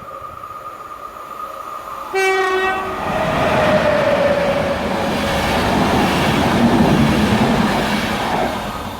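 A train passing: a steady tone as it approaches, a short horn blast about two seconds in, then the loud rush and rumble of the train going by, fading near the end.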